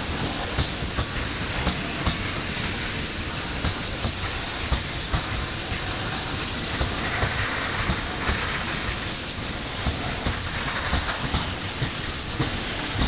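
Open freight wagons of a long coal train rolling past: a steady rushing hiss of wheels on rail, with irregular low knocks and clunks from the wheels and couplings.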